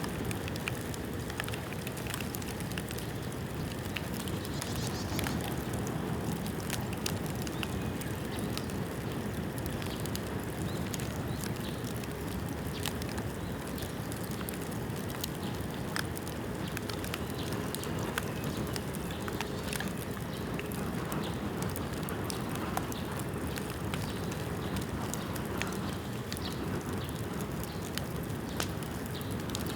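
Bamboo bonfire burning, with frequent sharp crackles and pops over a steady low rush.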